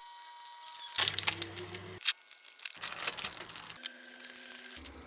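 Crackling and rustling handling noises with sharp clicks, in short segments about a second long that change abruptly.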